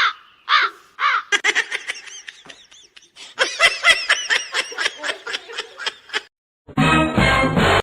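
Laughter, a fast run of short high-pitched bursts each rising and falling in pitch. Near the end it breaks off and a different loud sound lasts about a second.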